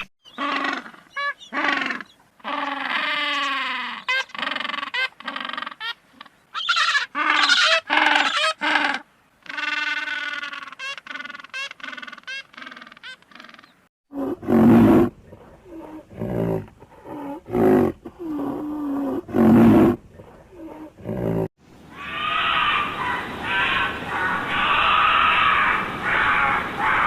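A run of different animal calls, one clip after another: first a long series of short, pitched calls with gliding pitch, then from about 14 s deep, loud calls at intervals of a second or two, then from about 22 s a dense, noisy stretch of calls from a different recording.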